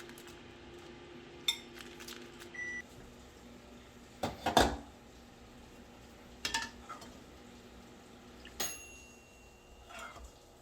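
Kitchen sounds: a steady appliance hum stops just after a short high beep, then dishes and utensils knock and clink a handful of times. The loudest clatter comes about halfway, and a clink near the end leaves a brief metallic ring.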